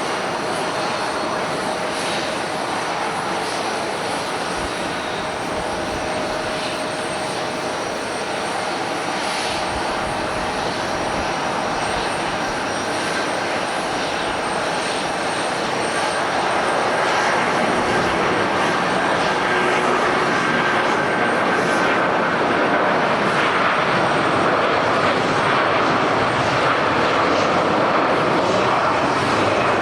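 Jet airliner engine noise, a steady rushing sound that grows louder about halfway through as the aircraft comes closer or powers up.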